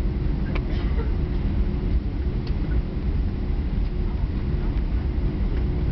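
Steady low rumble of an Airbus A319 taxiing with its engines at idle, heard from inside the passenger cabin, with a steady hum over it.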